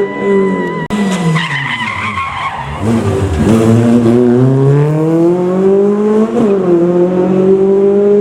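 Rally car on a gravel stage: a sudden lift about a second in, engine revs falling as it slows through a corner, then climbing steadily as it accelerates away, with a quick gearshift about six seconds in.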